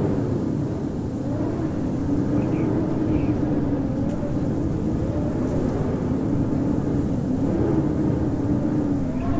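Howling winter wind: a steady rush with a low, slowly wavering whistle and fainter higher whistles over it.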